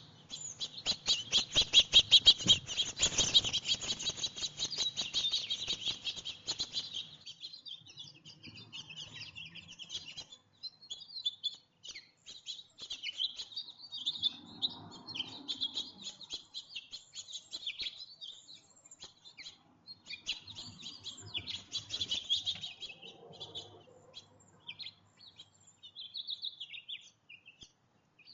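Small songbirds chirping and twittering close by: a loud, fast run of chirps for the first six seconds or so, then scattered, quieter chirps and calls.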